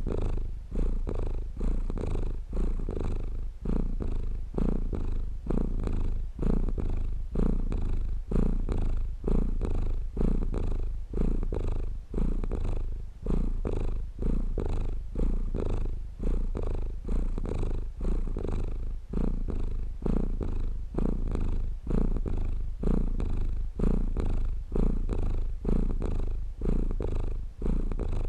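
Domestic cat purring continuously, the purr swelling and easing in a steady rhythm about once a second.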